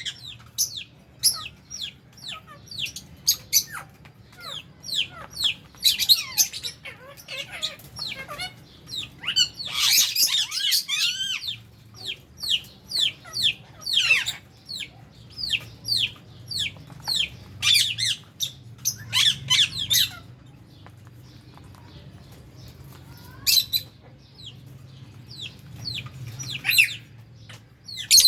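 A flock of lovebirds in an aviary chirping and squawking: sharp, short, high calls in quick overlapping runs that thin out after about twenty seconds to a few scattered calls.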